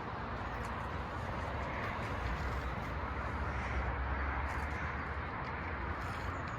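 Waterfall: the steady rushing of falling water, an even hiss with a low rumble underneath.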